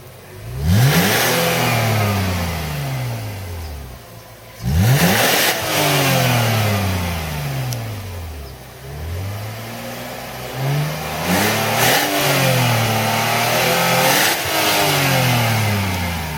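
BMW 325Ci's inline-six engine revved through its exhaust. There are two sharp revs, each falling slowly back over a few seconds, then a run of quicker blips in the second half.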